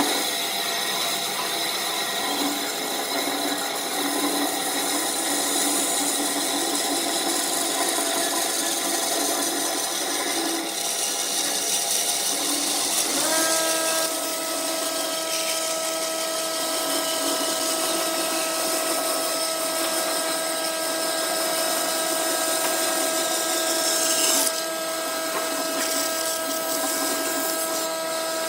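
Wood lathe running with a steady motor whine while a tool cuts the spinning wood with a continuous hissing scrape. About halfway through, a new higher steady whine sets in with a brief rise in pitch.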